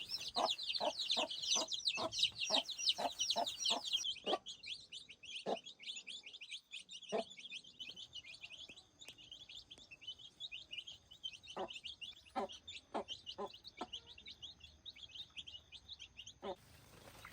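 A flock of chicks peeping busily, loudest in the first few seconds. Over it a chicken clucks, about two or three clucks a second at first, then in scattered ones.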